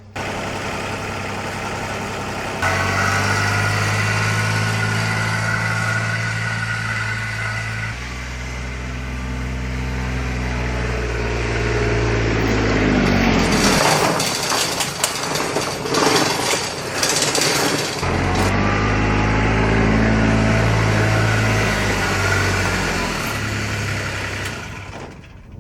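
Small utility vehicle engine running, its speed stepping up and down several times. In the middle stretch the engine note drops away under a few seconds of clattering and knocking.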